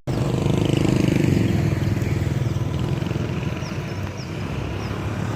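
A motorbike engine running close by, loudest in the first couple of seconds and then fading away, over street traffic. Several short, faint, high chirps are heard through it.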